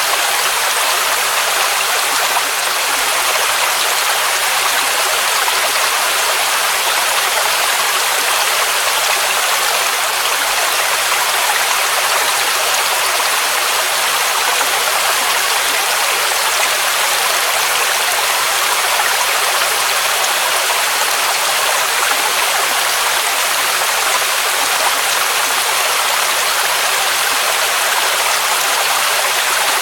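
Waterfall rushing: a steady, unbroken hiss of falling water, strong in the middle and high pitches with little deep rumble.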